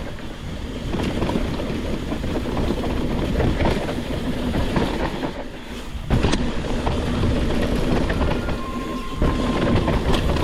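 Mountain bike riding fast down a rough, rocky dirt trail: tyres grinding over dirt and rock while the bike and chain rattle, with a heavy thump about six seconds in. A thin steady squeal starts near the end.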